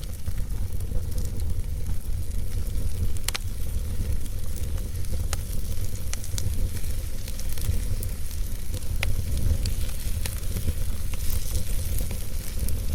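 Log fire burning in a fireplace: a steady low rumble of flames with scattered sharp crackles and pops, a few standing out about three, five and nine seconds in.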